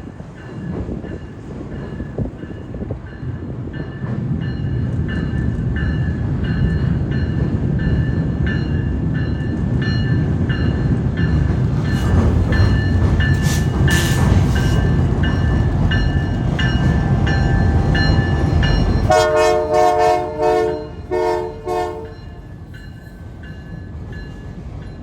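CP Holiday Train passing: a heavy rolling rumble builds over about fifteen seconds, with steady high whining tones above it. It then cuts off abruptly, and a diesel locomotive horn sounds three short blasts.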